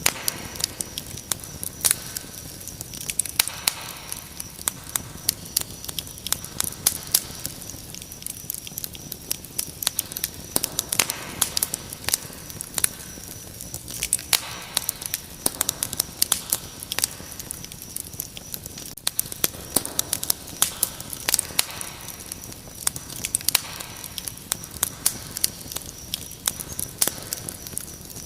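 Wood fire crackling, with frequent irregular sharp pops and snaps, over a steady high-pitched cricket trill.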